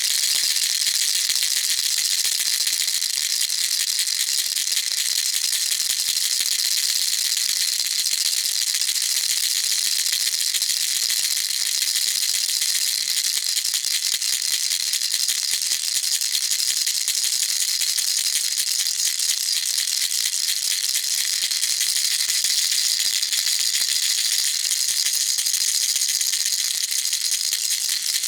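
Baby rattle shaken nonstop: a fast, dense, even rattle, bright and high, with hardly any low end.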